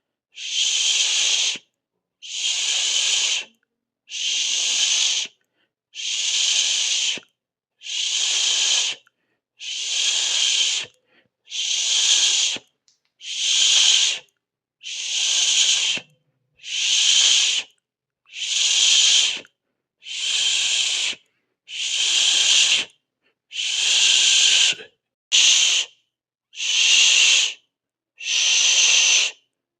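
A person hissing through the teeth, a steady 'sss' held for about a second and then stopped, repeated about every 1.7 seconds with silence in between.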